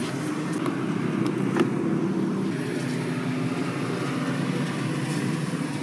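Steady drone of road traffic, with a faint engine hum and a single click about one and a half seconds in.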